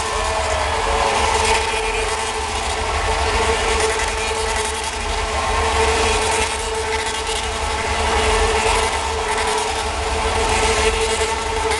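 Vehicle engine running steadily, a constant hum over a low rumble, with no rise or fall in pitch.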